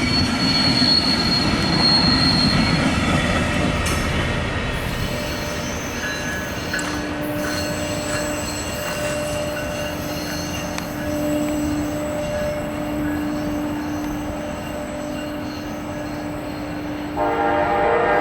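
Amtrak passenger train rolling past, its wheels rumbling on the rails, with a thin high wheel squeal in the first few seconds. The train horn sounds suddenly near the end.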